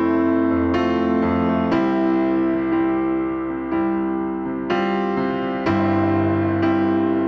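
Slow background piano music: chords struck and left to ring, a few about a second apart, with a longer held stretch in the middle.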